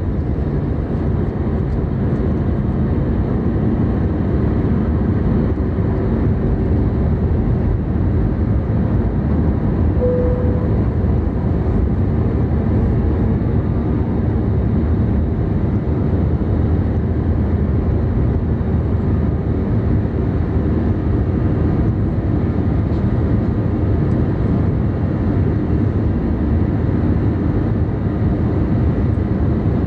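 Steady jet-engine and airflow noise heard from inside the cabin of a Vanilla Air Airbus A320 as it takes off and climbs. A short faint tone sounds about ten seconds in.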